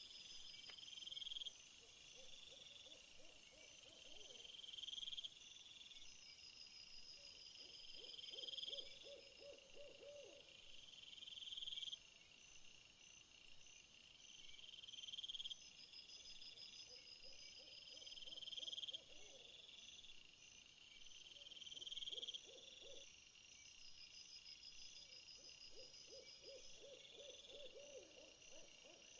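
Faint night-time insect chorus: a high buzzing call that swells and cuts off about every three to four seconds over a steady high hiss. A low trilled call, like an owl's, sounds five times.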